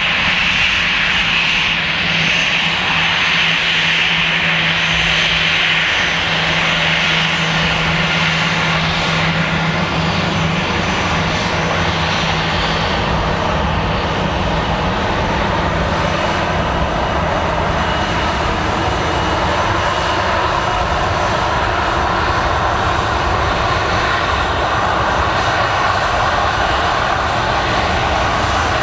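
Airbus A320's CFM56 turbofan engines at takeoff thrust as the airliner takes off: a loud, steady jet engine noise with a high whine strongest in roughly the first ten seconds.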